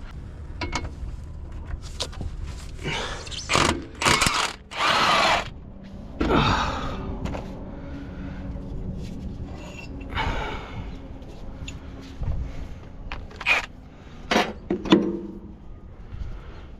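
Hand tools and metal engine parts clicking, knocking and scraping as work goes on around the loader engine, with a run of louder scraping noises about four to five seconds in and a few sharp clicks near the end.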